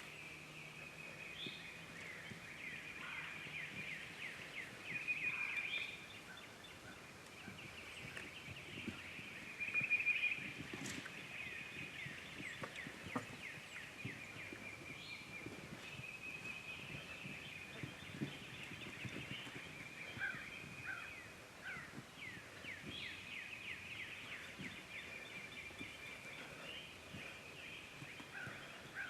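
Eastern wild turkey gobbling, with the two loudest calls about five and ten seconds in, over a steady background of other bird calls.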